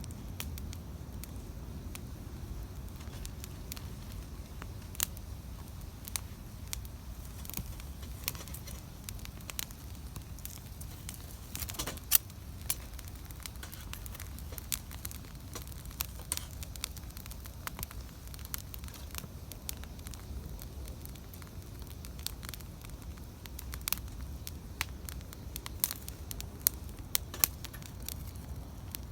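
Wood campfire burning, with irregular crackles and sharp pops over a soft steady low rustle of the flames. The pops grow more frequent near the end, and the loudest comes about twelve seconds in.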